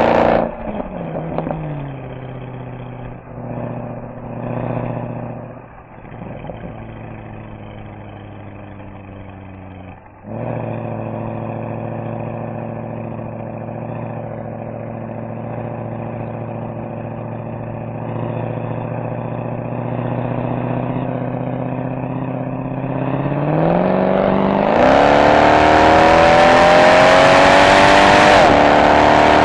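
Mercedes-AMG SL63 V8 exhaust: the revs drop sharply off a pull at the start, then the engine runs at low, steady revs for about twenty seconds. Near the end it accelerates hard, the pitch climbing and the exhaust getting much louder, with a brief shift step on the way up.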